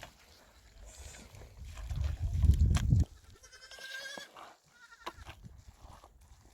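A goat bleating with a wavering, quavering call about three and a half seconds in, with a fainter bleat earlier. A low rumble, loudest just before the main bleat, runs under it.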